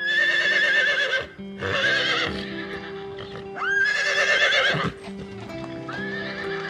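Four loud animal calls with a wavering, quavering pitch, each lasting about a second; the third starts with a quick upward slide, and the last is fainter. Background music with sustained notes plays underneath.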